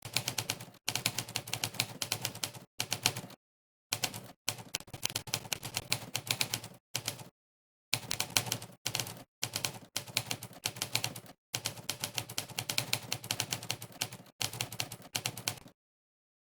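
Monkeytype's typewriter keystroke sound effect: fast runs of sharp typewriter key clicks, one per keypress, broken by brief silent pauses. The clicks stop just before the end.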